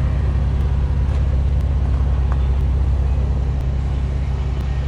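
Car engine running steadily with a deep, even low rumble.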